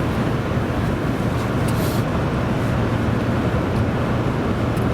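Steady drone of road and engine noise heard inside a moving vehicle's cabin, with a few faint ticks over it.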